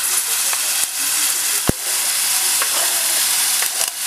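Chopped fresh tomatoes sizzling as they go into hot oil with fried garlic in a frying pan, pushed off a cutting board by a spatula with small scraping clicks. One sharp knock a little under two seconds in.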